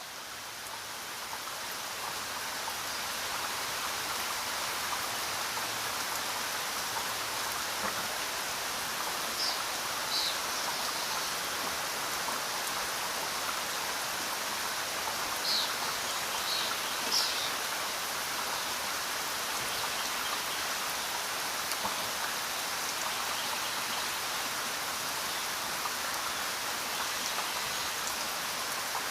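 Steady rain falling, fading in over the first few seconds and then holding even. A few brief high-pitched sounds stand out faintly around the middle.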